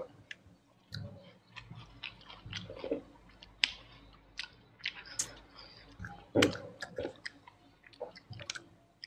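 A person chewing and biting food close to the microphone, with many short sharp clicks of mouth sounds and a louder bite about six and a half seconds in.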